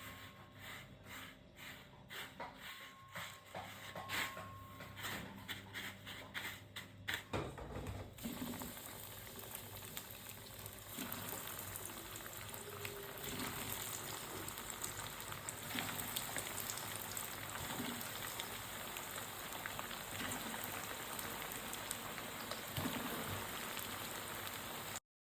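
Food frying in hot oil: steady sizzling with small crackles and pops from about eight seconds in, cutting off abruptly near the end. Before that comes a run of regular light clicks or taps.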